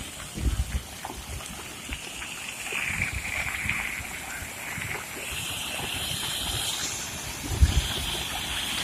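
Floodwater rushing in a swollen river, a steady noisy wash, with a few brief low thumps on the microphone about half a second in and near the end.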